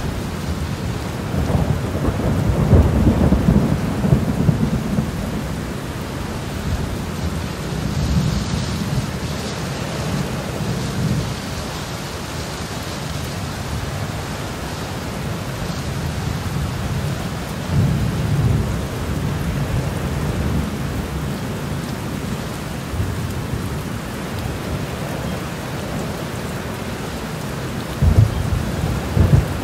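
Steady rain with thunder rumbling: low rumbles swell up several times, and two sharper ones come near the end.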